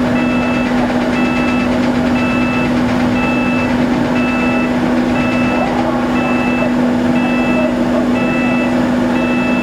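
Steady low hum of the ferry's machinery with an electronic warning beeper sounding about once a second, each beep about half a second long.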